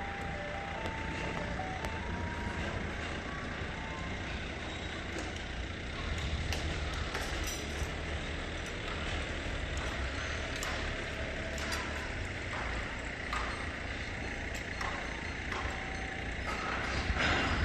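Truck running with a steady low rumble, with a few short electronic beeps in the first second or two.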